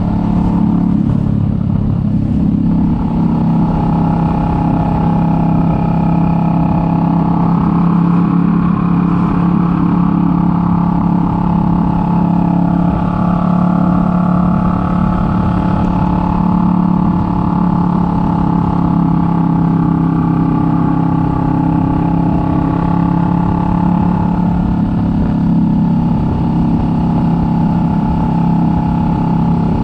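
Kawasaki Vulcan S 650's parallel-twin engine running at a steady cruise, holding a fairly even pitch throughout.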